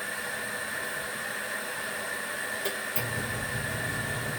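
Portable washing machine filling with water: a steady hiss of running water, then a click about three seconds in and a low hum as the machine starts running.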